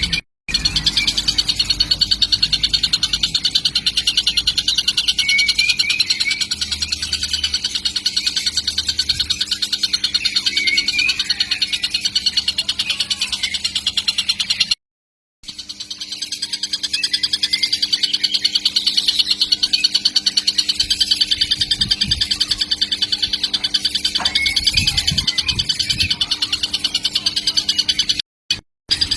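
Young kingfisher calling nonstop in a rapid, high-pitched chittering trill, with a short silent break about halfway through.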